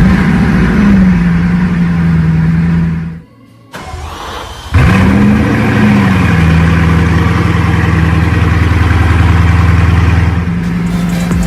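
A car engine starting twice: each time it catches with a brief rising flare of revs, then settles to a steady idle. There is a short pause between the two starts, about 3 to 4 seconds in.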